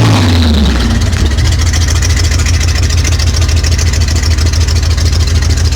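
Pickup truck's inline-six engine idling through loud exhaust pipes, a steady deep rumble.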